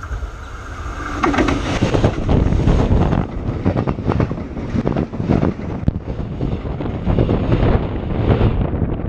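Electric suburban metro train passing directly over a camera lying between the rails. A whine and rumble rise as it approaches, then the loud rumble and rattle of wheels and bogies rolling overhead, with repeated clacks and air buffeting the microphone. The sound cuts off suddenly near the end.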